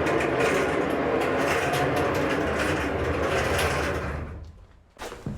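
A woodworking machine milling floorboards runs steadily with a low motor hum under a dense, even cutting noise, then dies away about four seconds in. A few sharp knocks, like boards being handled, come near the end.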